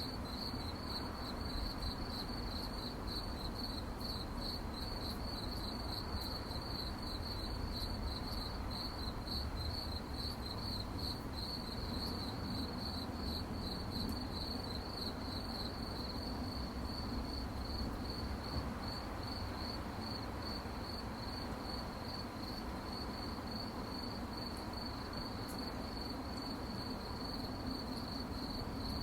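Crickets chirping at night in a steady, rapidly pulsing high-pitched chorus, over a soft low background hum.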